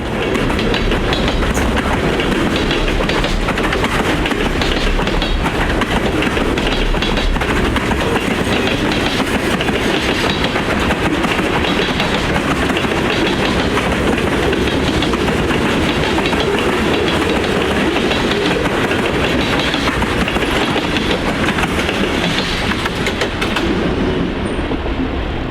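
Freight cars rolling past at about 25 mph, their wheels slamming over the joints of jointed rail in a steady clickety-clack.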